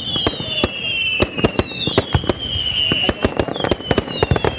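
Fireworks display: a dense, rapid run of sharp bangs and crackles, with high whistles falling in pitch one after another over the top.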